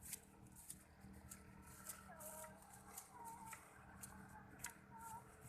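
Near silence, with faint short bird calls a couple of times and scattered light clicks.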